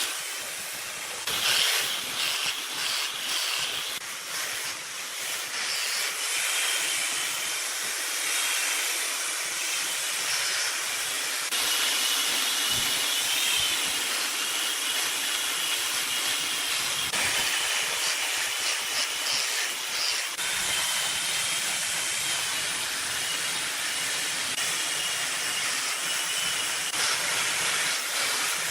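Wood lathe at work, a turning tool cutting the spinning wood: a steady hiss with a faint wavering whine that comes and goes.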